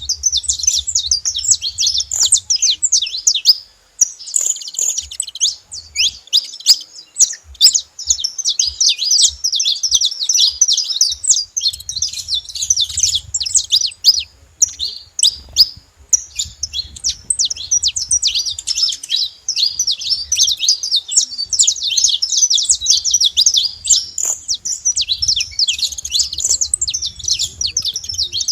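A flock of saffron finches chirping and calling together, many short overlapping chirps in a dense, unbroken chatter.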